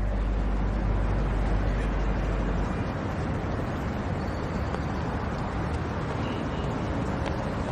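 Steady outdoor traffic-like background noise, a dense even hiss and rumble; a low held tone underneath stops about three seconds in.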